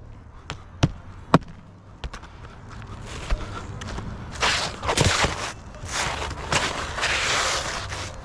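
Hand work on a shingle roof: several sharp knocks in the first two seconds, then scraping and rustling from about four seconds in to near the end.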